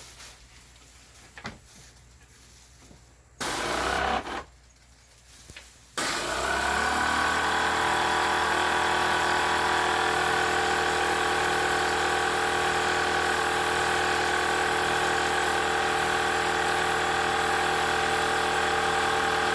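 Motor of a high-pressure washer used for air-conditioner cleaning: one short burst a few seconds in, then about six seconds in it starts up, settles within a second and runs on with a steady, even drone of several fixed tones.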